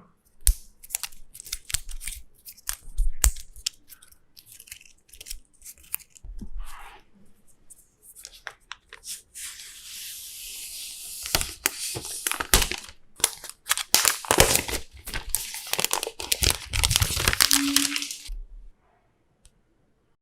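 Packaging of an iPad Pro being handled and torn open: scattered clicks and rustles, then a long stretch of tearing and crinkling from about halfway that stops suddenly near the end.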